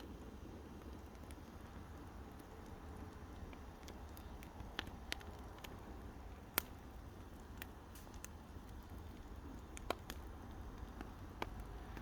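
Campfire crackling: sparse, sharp pops and snaps at irregular intervals, the loudest about six and a half seconds in, over a low steady rumble.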